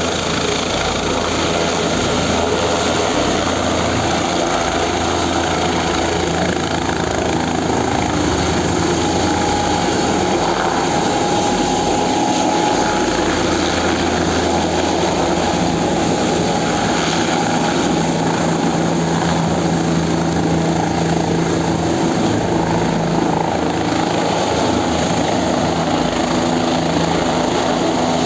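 Helicopter rotor and turbine engine running loud and steady during take-off.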